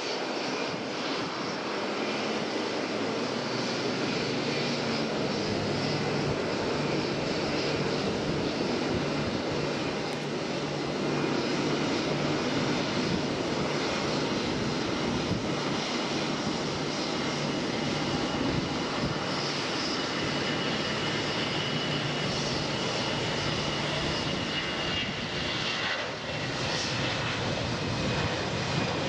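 Jet noise from an Airbus A320-214 airliner's CFM56 turbofan engines as it comes in to land: a steady, even rush with a thin high whine in the second half.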